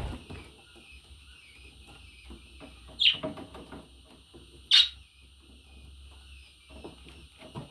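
Budgerigar warbling continuously, with two loud sharp calls, one about three seconds in and one near five seconds, over faint scattered clicking.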